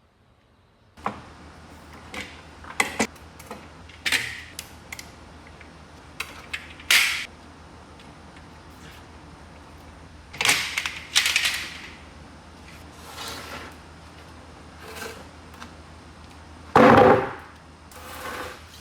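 Hand-tool woodworking at the bench: irregular sharp knocks and taps of tools and wood, a few short scraping strokes, and one heavier thump near the end, over a low steady hum.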